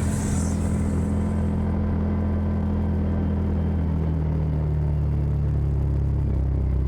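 Side-by-side UTV engine running at low speed, a steady low hum. A higher hiss dies away in the first two seconds, and the engine note drops slightly about four seconds in as the machine slows.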